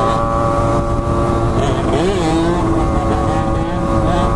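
Motorcycle engines running at a steady speed while riding, with wind noise on the microphone; the engine pitch dips and rises briefly about two seconds in.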